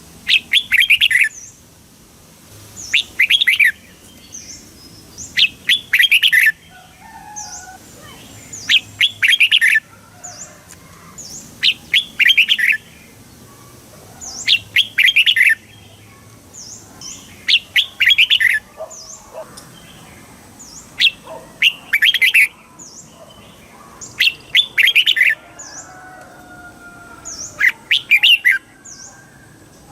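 Red-whiskered bulbul singing: short, quick, bright phrases repeated about every three seconds, with faint high chips between them.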